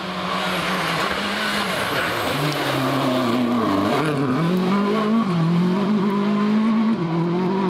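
Rally car on a gravel stage, its engine pitch dipping and rising several times as it is driven hard, over a steady hiss of tyres sliding on loose gravel.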